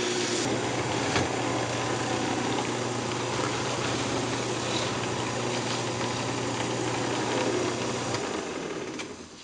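Wood lathe running steadily with a hiss of friction as the spinning maple box is polished; the motor hum stops about a second before the end and the sound dies away as the lathe is switched off.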